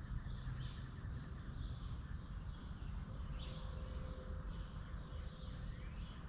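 Several songbirds chirping in short, scattered calls, one brighter call about three and a half seconds in, over a steady low outdoor rumble.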